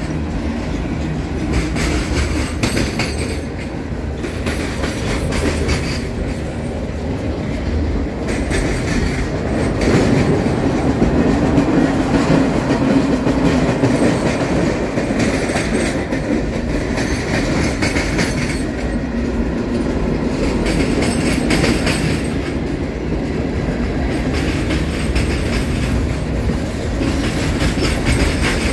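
Freight cars of a mixed freight train rolling past close by. The wheels give a steady rumble, with repeated clicking and clacking over the rail joints.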